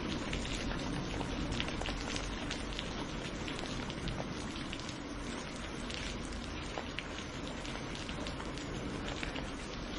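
Steady rain falling, a continuous hiss of rain with many separate drops pattering close by.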